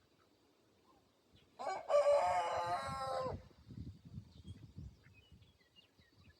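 A rooster crows once, a single call of about a second and a half, starting about one and a half seconds in. Soft low knocks and rustling follow, with faint small bird chirps.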